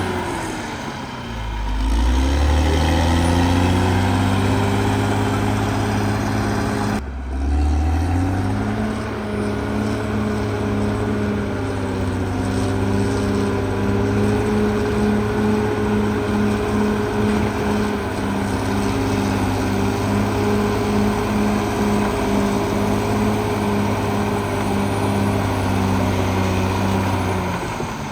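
CAT D6R XL bulldozer's diesel engine running loud and steady. Its pitch sags and climbs back twice: just after the start, and after an abrupt break about seven seconds in.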